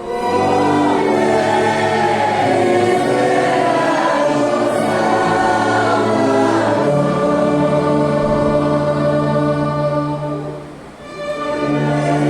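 A hymn sung by many voices in harmony over sustained instrumental chords. The line ends about eleven seconds in with a brief drop, and the next phrase starts.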